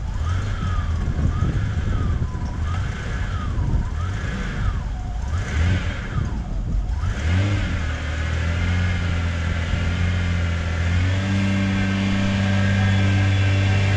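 Ferrari Testarossa's flat-12 engine running, its pitch rising and falling through the first half, then holding a steady, slightly louder note near the end.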